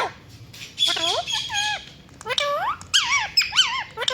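Ringneck parrot giving a string of short squeaky calls that glide up and down in pitch, in two bunches about a second in and from about two seconds on, after a short sharp click right at the start.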